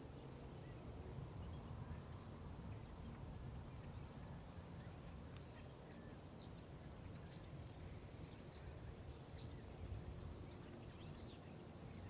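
Faint outdoor background with a steady low rumble, and a scatter of short, high, faint bird chirps from about five seconds in.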